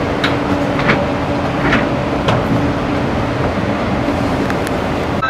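Passenger train rolling slowly out of a station, heard from inside the coach: a steady rumble with a few sharp clicks from the wheels and running gear, and a steady hum through the first few seconds.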